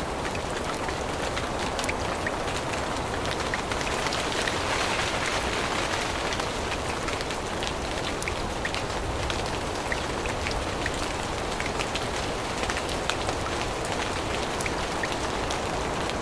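Steady rain falling in a forest, with many separate drops ticking sharply close by.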